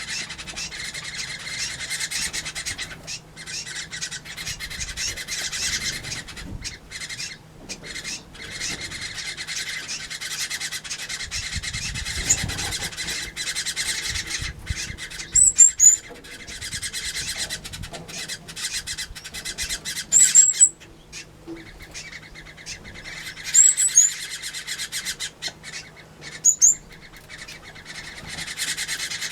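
Mixed aviary of small finches, waxbills and turquoise parrots chattering and twittering continuously, a dense high-pitched chorus of many birds at once. Four short, loud, shrill calls stand out above it, spaced a few seconds apart in the second half.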